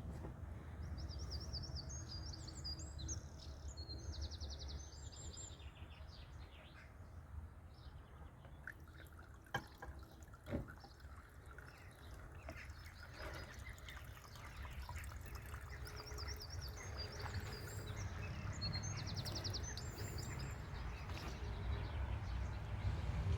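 A songbird singing two similar trilling phrases, about a second in and again about sixteen seconds in, over a steady low rumble, with a couple of sharp clicks near the middle.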